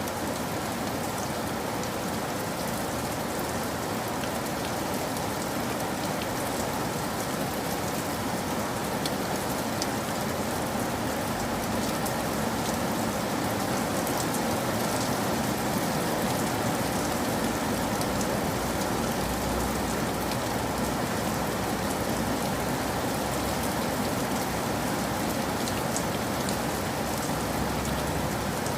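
Steady, even rain falling, with scattered drop ticks through it.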